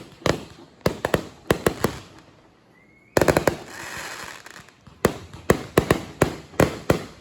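Fireworks going off: sharp bangs in quick succession, a brief lull, then a short rising whistle and a dense cluster of bangs about three seconds in, trailing into a hiss. From about five seconds in the bangs come steadily, roughly three a second.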